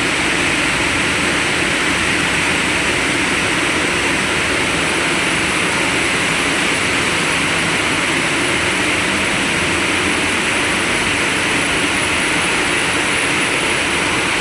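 Steady, loud machinery noise of a blast furnace coal preparation plant, an even rushing drone with no letup. A faint high whine joins it about five seconds in.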